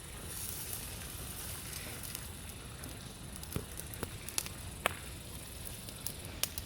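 Campfire crackling: a low steady hiss with a few sharp pops from the burning wood, scattered through the second half.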